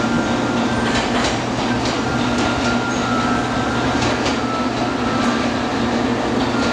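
Steady hum of parked electric trains idling at a station platform, with scattered light clicks and faint high tones over it.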